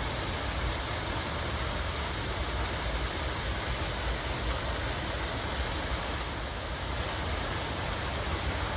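Steady rush of running water, an even noisy splashing with no breaks.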